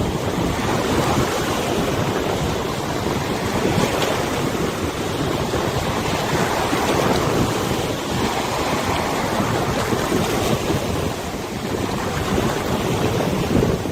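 Wind buffeting the microphone over the rush and lap of river water, a steady noisy wash that swells and eases slowly.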